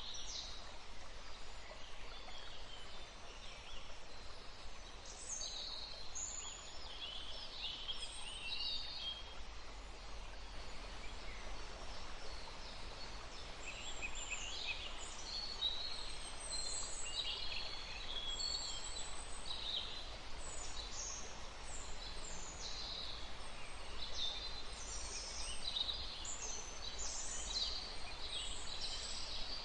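A woodland stream flowing steadily, with many small birds chirping and calling over it; the bird calls grow busier about halfway through.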